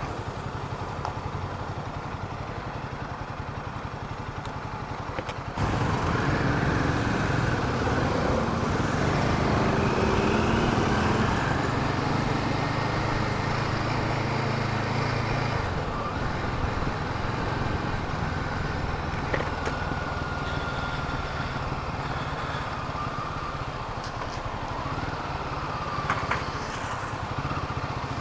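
Royal Enfield Himalayan 450's single-cylinder engine running while riding through traffic, with road and wind noise. It gets suddenly louder about five seconds in, and the engine note rises and falls as the bike accelerates, then steadies.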